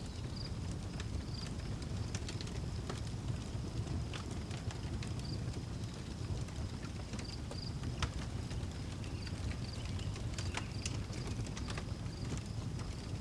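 Outdoor wood fire crackling, with irregular sharp pops over a steady low rumble. A cricket chirps in short, evenly repeated high pulses behind it.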